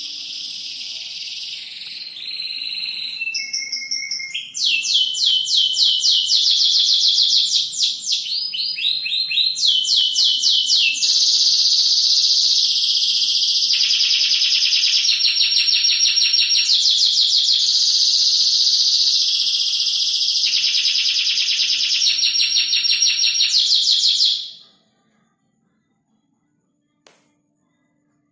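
Domestic canary singing a long, loud song of rapid trills and rolls, which stops suddenly about 24 seconds in.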